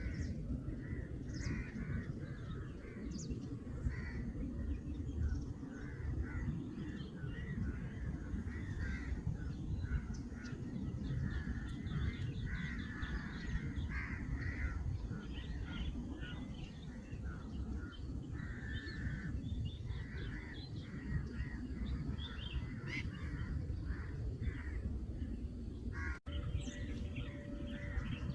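Many birds calling, a dense run of short calls over a steady low rumble. The sound drops out for an instant near the end.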